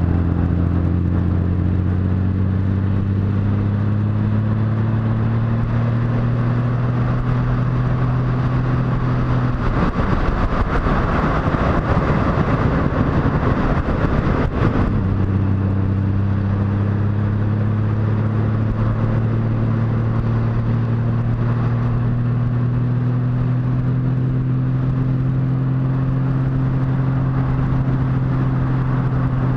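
Motorcycle engine running at road speed, its note rising slowly as the bike gathers speed. For about five seconds in the middle the engine note is drowned by a louder rushing noise, then it comes back.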